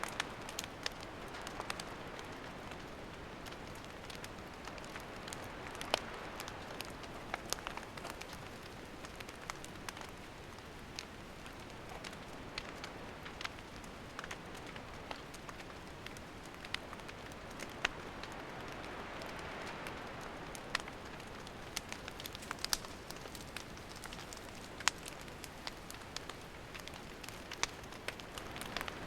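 Wood campfire burning: a steady hiss of flames with scattered sharp crackles and pops from the burning logs.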